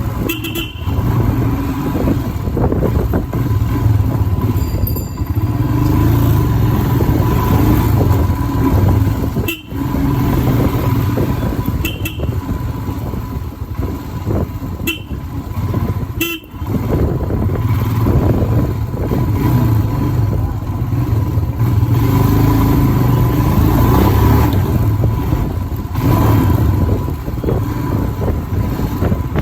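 Royal Enfield Himalayan single-cylinder motorcycle being ridden, with its engine running under a heavy rush of wind on the microphone. Short horn toots sound a few times.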